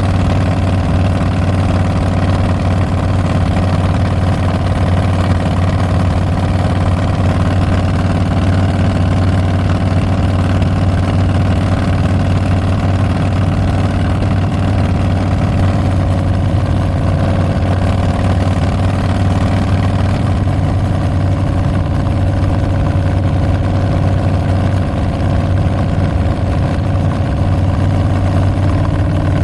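Exhaust of a 2022 Harley-Davidson Street Bob's Milwaukee-Eight 114 V-twin through Tabs Performance slip-on mufflers with Zombie baffles, running at a steady, unchanging note with no revving.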